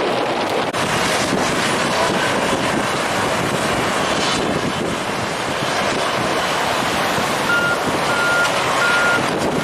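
Strong wind buffeting the microphone; about three quarters of the way through, a heavy earthmoving machine's reversing alarm starts beeping, a single high beep repeated about every two-thirds of a second.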